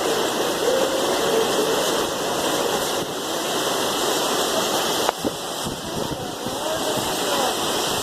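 Heavy rain mixed with hail pouring down: a dense, steady hiss, with a single sharp click about five seconds in.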